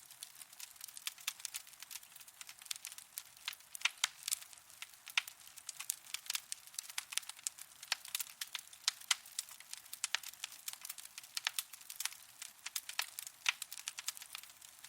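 Wood fire burning in a fireplace, crackling with many sharp pops and snaps at irregular intervals, several a second, with no low roar of flame beneath them.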